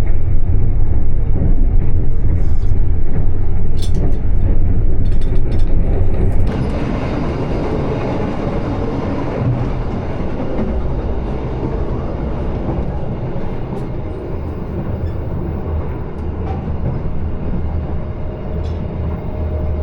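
Passenger train running at speed, a steady rumble of the carriage on the rails with a few light clicks early on. The sound drops abruptly to a quieter, duller rumble about six and a half seconds in.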